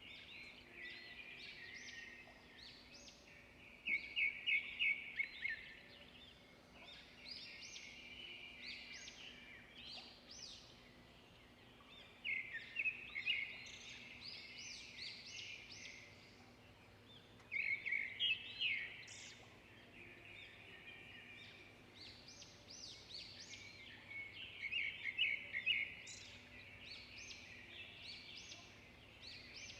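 Songbirds singing and chirping continuously, with four louder bursts of rapid repeated notes spread through the stretch.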